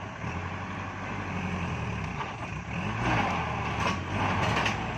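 Farm tractor's diesel engine running under load, its pitch rising and falling, with a few short clatters in the second half.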